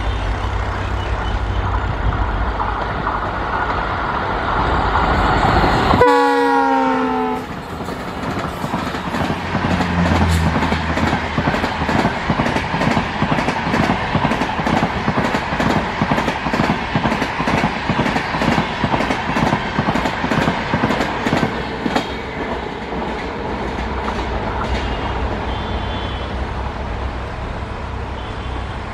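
A pair of diesel locomotives hauling an express train approaches with a low engine rumble. The locomotives sound their horn as they pass about six seconds in, and its pitch drops as they go by. The passenger coaches then run past with a steady, rhythmic clickety-clack of wheels over the rail joints, easing off near the end.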